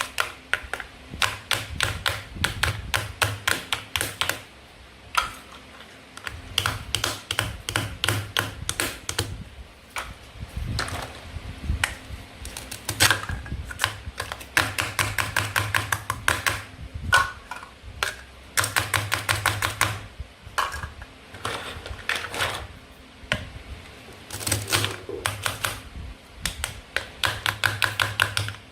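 Toy play food being cut with a toy knife: runs of rapid, sharp plastic clicks and taps, many a second, broken by short pauses.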